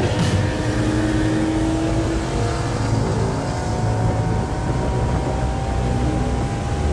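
Car engine running loud and steady, its pitch drifting slowly up and down.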